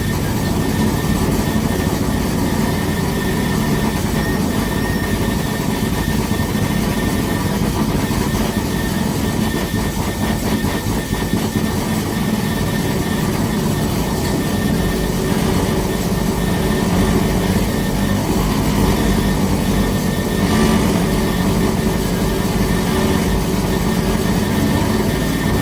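Live noise music: a dense, loud, rumbling wall of electronic noise that holds steady without pauses, heaviest in the low end.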